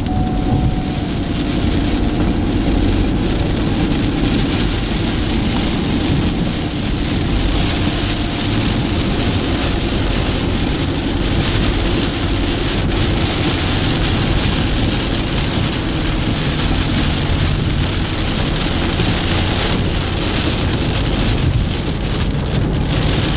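Heavy rain hitting a moving car, with steady road and engine noise underneath, heard from inside the car.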